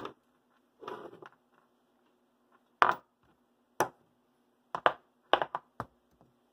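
Small hard parts and tools being handled and set down on a workbench: a series of sharp clicks and knocks, a short rattle about a second in, and a quick cluster of taps near the end.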